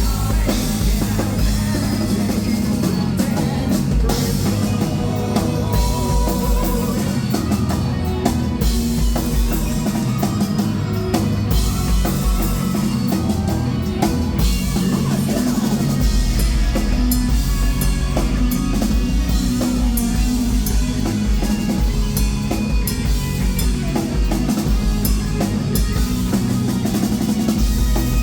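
Live rock band playing an instrumental passage with no vocals, the drum kit and bass drum driving it loudly.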